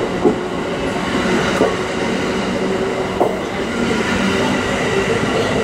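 Cassiopeia sleeper train's E26 series coaches rolling slowly past close by as the train departs, a steady rumble with a held hum. Wheels click sharply over rail joints about every second and a half.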